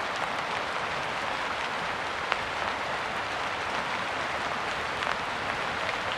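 Steady rain falling, a dense even hiss with scattered sharper drop ticks, one louder about two seconds in.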